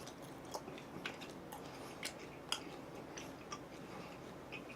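A person chewing food close to the microphone, with crisp clicking mouth sounds about twice a second.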